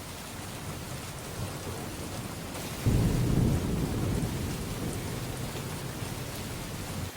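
Heavy monsoon rain pouring steadily. About three seconds in, a loud low rumble of thunder breaks out and slowly fades.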